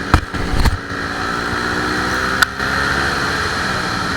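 A motor vehicle engine running steadily, its pitch drifting slightly, with a few low knocks in the first second and a sharp click about two and a half seconds in.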